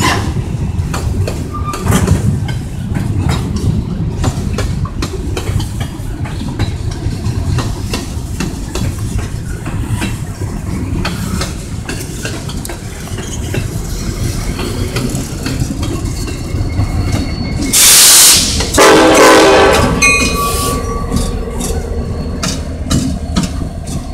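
Freight train cars rolling past with a steady rumble and clicking wheels over rail joints. About 18 s in, the diesel locomotive's air horn sounds loudly for about two seconds.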